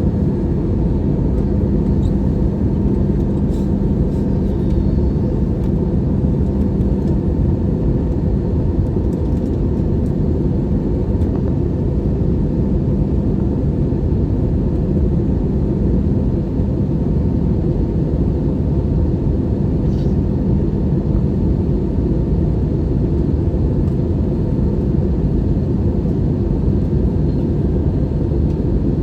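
Steady cabin noise of an Airbus A320-214 in flight: a low, even rumble of engines and airflow with a faint steady hum, and a few small clicks.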